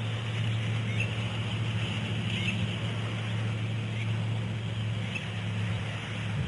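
Steady low hum with an even hiss from the live cam's audio, with a few faint, short, high chirps about a second or two apart.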